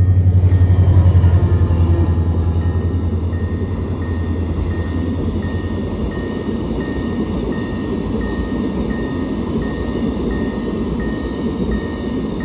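A diesel freight locomotive passes close by: its deep engine drone is loudest about a second in, then fades. The cement tank wagons behind it rumble and clatter over the rails. Through this, the level-crossing warning bell dings steadily, about once every 0.7 seconds.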